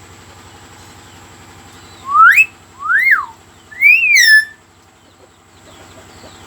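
A mimicking pet bird whistling three loud notes: a quick rising whistle, then two whistles that rise and fall, each about a second apart, over a steady low hum.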